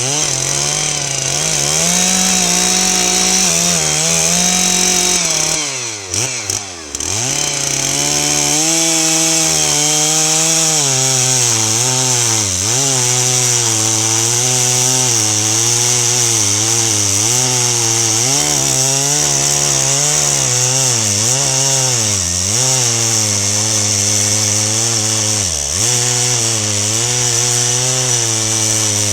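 Stihl MS 660 two-stroke chainsaw running at high revs while cutting wood. Its engine note dips again and again as the chain loads in the cut, and drops sharply about six seconds in before revving back up.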